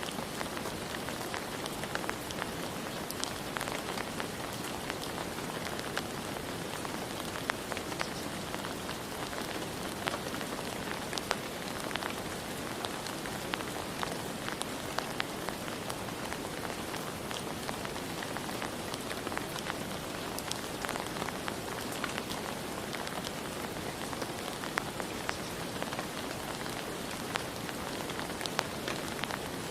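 Steady rain falling, a constant hiss with many scattered individual drops ticking on a surface.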